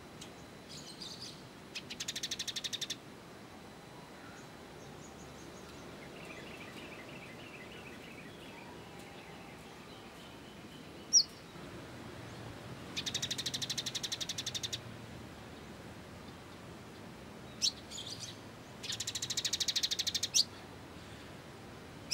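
Small songbirds calling: three high, rapid chattering trills of one to two seconds each, with a few short sharp chirps between them, the loudest about halfway through.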